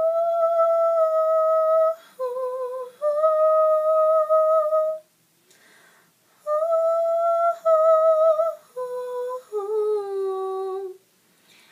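A female voice humming a cappella: long, steady held notes in two phrases with a short pause between them, the last note lower.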